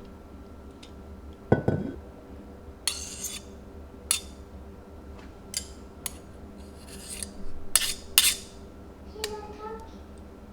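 Kitchenware being handled: dishes, pots and utensils knocking and clinking about ten times, with a heavy knock about one and a half seconds in and a short ringing clink near the end.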